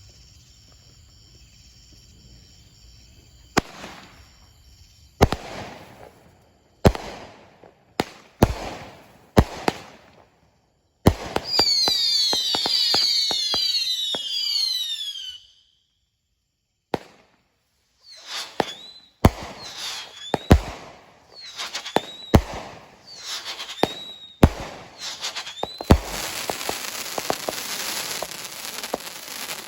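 Brothers 'Mobile Menace' 35-shot 200-gram firework cake firing: single shots bang out one by one, then several whistles with falling pitch overlap for about four seconds in the middle. More shots follow, each with a short whistle, and the end is a dense spell of crackling.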